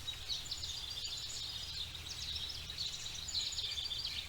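Forest ambience: many small birds chirping, a busy chorus of short high notes, over a low steady rumble.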